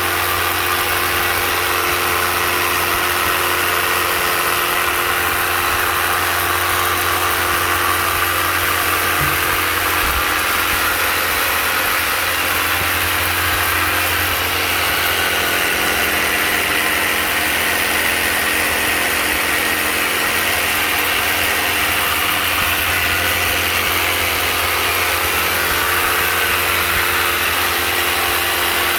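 Narion 30-bar high-pressure washer running steadily: a constant motor hum under a dense hiss of the water spray.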